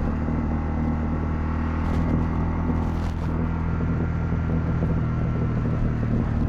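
Honda CL250's single-cylinder engine running at a steady speed under way, with road and wind noise.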